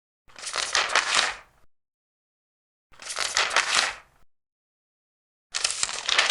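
Large paper pages being turned, three separate rustling page turns about two and a half seconds apart, each lasting just over a second.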